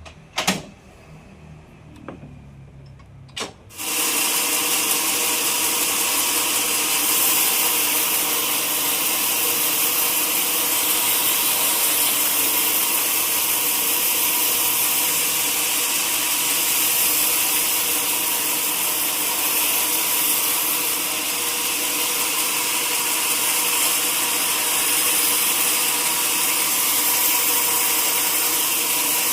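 A couple of sharp knocks, then about four seconds in a sawmill saw comes in loudly and runs steadily, a hiss with several steady tones over it.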